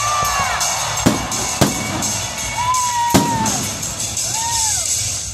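Aerial fireworks shells bursting overhead: three sharp bangs, about a second in, half a second later, and again past the three-second mark, each with a rolling echo. Music and crowd noise run underneath.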